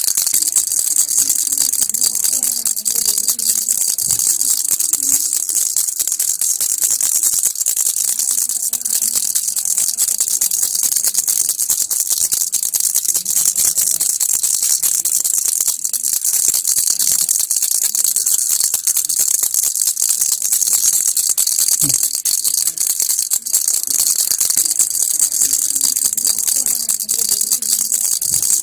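Baby rattle shaken continuously: a steady, dense, fast rattling.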